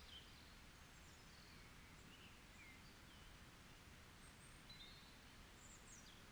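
Faint forest birdsong: scattered short chirps and quick whistled glides from small birds over a steady low hiss.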